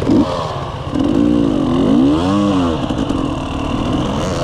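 Dirt bike engine running, revved up and back down twice in quick succession.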